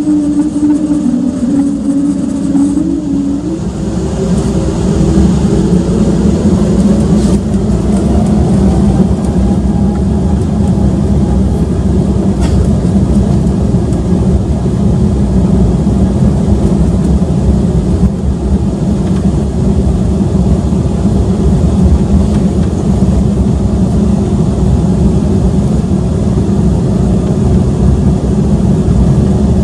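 Embraer 195-E2's Pratt & Whitney PW1900G geared turbofan engines spooling up for takeoff, heard inside the cabin. Two humming tones rise in pitch a few seconds in, then a loud, steady engine and rushing noise continues through the takeoff run.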